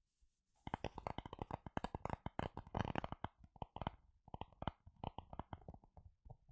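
Rapid, close-miked tapping and scratching by fingers, an ASMR trigger. It starts about half a second in as a dense run of quick clicks and thins out to sparser taps in the second half.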